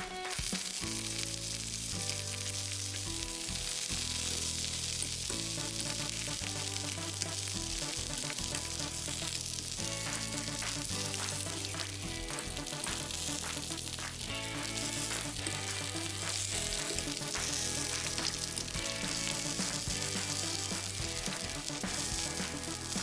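Hamburger-filled tortilla tacos frying in oil in a frying pan, sizzling steadily. Background music with a repeating bass line plays underneath.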